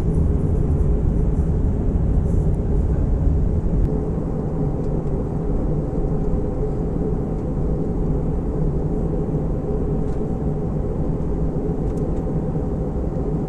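Steady low noise inside an Airbus A320 passenger cabin, from the jet engines and air systems. It drops a little about four seconds in, after which a faint steady tone runs on.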